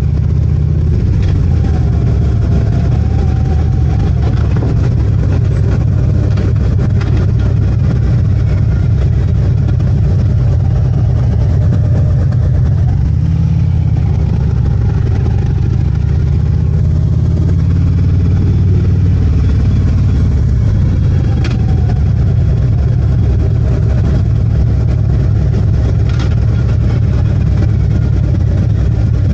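Harley-Davidson motorcycle's V-twin engine running steadily under way, its low rumble drifting gently up and down in pitch.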